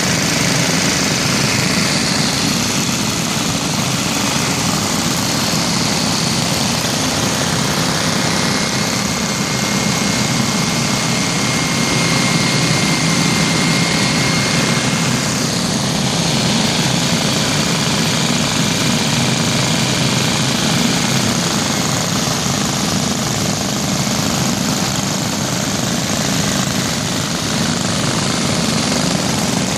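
About twenty vintage Briggs & Stratton single-cylinder engines, mostly Model N's, running together at once: a steady, dense mix of many small engine beats with no single engine standing out.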